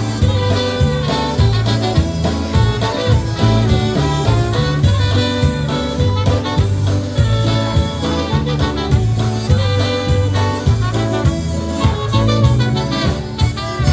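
Live polka band playing an instrumental passage: horns and saxophone over a steady bouncing bass and drum beat.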